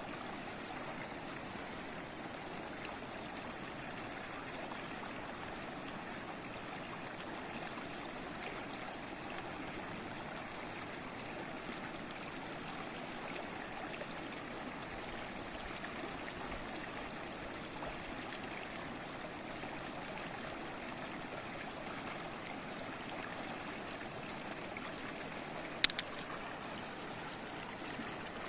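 Babbling stream: water running steadily over stones. Near the end, a sharp double click stands out briefly above the water.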